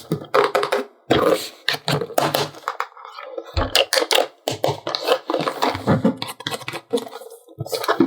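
Toy box and plastic packaging being handled and opened by hand: an irregular run of clicks, taps and crinkles.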